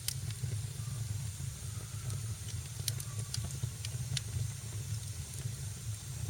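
Fireplace fire crackling: scattered sharp pops, a few close together about three seconds in, over a steady low rumble and hiss.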